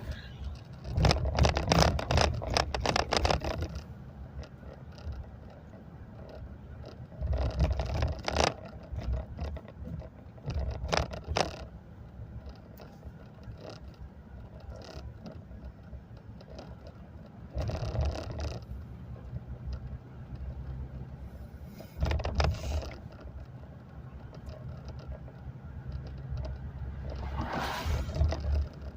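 Car driving, heard from inside: a steady low road and engine hum, with louder rushing swells about six times, the longest about a second in.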